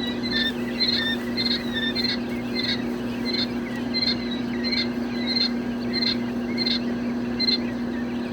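Young chicks peeping in a brooder: short, high chirps repeated about twice a second, over a steady low hum.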